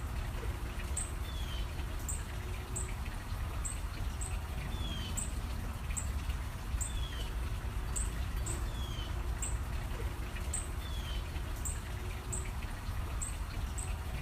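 Small birds chirping: short high chirps repeating about once a second, with a short falling call every couple of seconds, over a steady low rumble.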